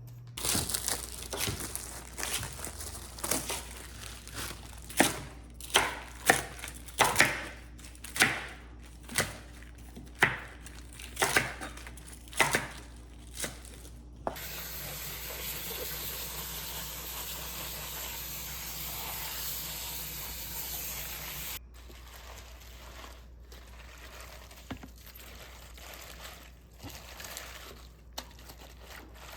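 Kitchen food preparation for kimchi: a run of sharp knife or cutting-board strikes about one a second, then a steady rushing noise for about seven seconds that cuts off suddenly, followed by a few light clicks.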